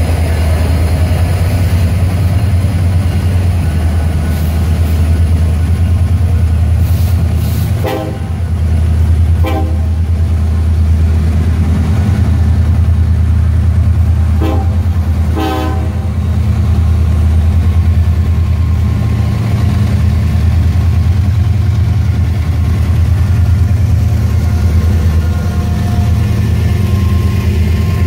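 Union Pacific freight train passing close by, its trailing diesel locomotives, an MKT heritage SD70ACe among them, giving a loud, steady low rumble before the covered hopper cars roll past. A train horn sounds four short blasts, two a little past a quarter of the way in and two about halfway.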